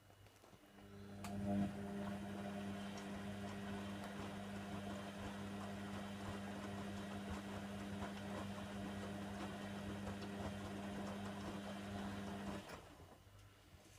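Hoover Nextra HNWL7146 washer dryer running a steady mechanical hum that starts about a second in and cuts off suddenly near the end.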